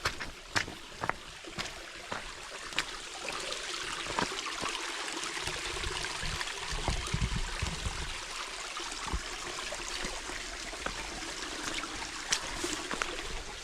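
A small stream running steadily, its sound swelling through the middle, with scattered sharp taps and clicks and a low thump about seven seconds in.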